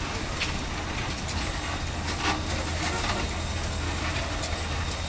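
Antique steam traction engine running: a steady low rumble with a few scattered knocks.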